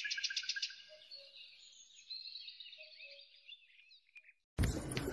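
Small songbird chirping and trilling high-pitched, with a quick run of notes early on, fading away after about four seconds. Near the end a steady outdoor hiss starts suddenly, with a few sharp clicks.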